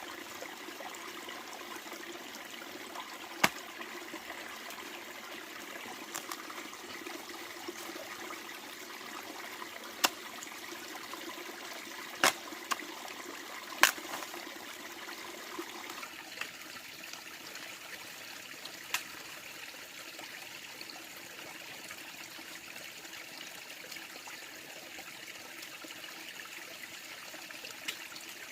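Steady running, trickling water, with a handful of sharp, separate clicks or knocks spread through it; the water sound thins slightly just past halfway.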